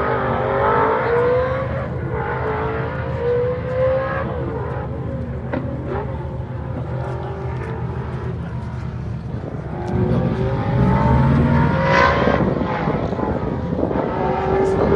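Vauxhall Firenza rally car's V8 engine accelerating hard uphill, its pitch climbing through each gear and dropping back at the gear changes. It grows louder about two-thirds of the way through as the car comes closer, pulling up through another gear near the end.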